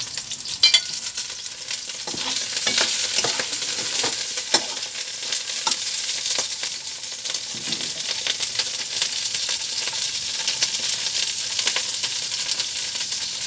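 Ginger and onion sautéing in hot oil in an aluminium pot, a steady sizzle with a metal ladle scraping and clinking against the pot as it is stirred. A sharp knock about a second in.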